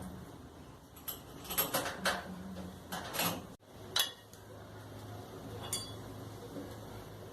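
Metal parts and tools clinking and knocking while a Brastemp tumble dryer is reassembled, with a few sharp clicks in the first half. After a sudden break, a low steady hum with one more small click.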